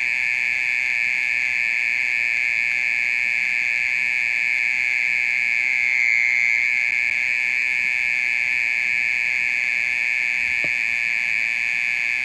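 Oriental mole cricket singing: a steady, unbroken high-pitched trill that swells slightly about six seconds in.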